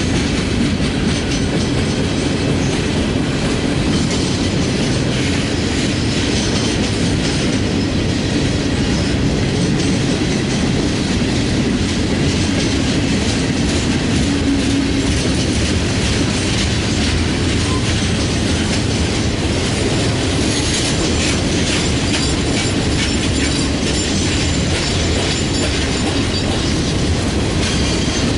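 Freight train cars rolling past, a steady clatter of steel wheels over the rail joints with metallic rattling.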